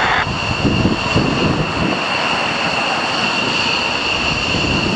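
F-15 fighter jets' engines running on the ground at taxi power: a steady high-pitched whine over a low rumble.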